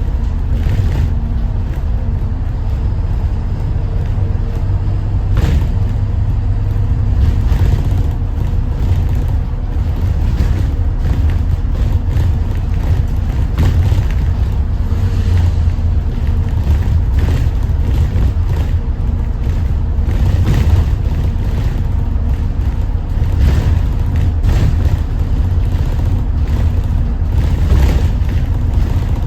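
Detroit diesel engine of a 2021 Thomas Saf-T-Liner C2 school bus running under way: a loud, steady low rumble with a faint droning tone, broken by scattered knocks and rattles.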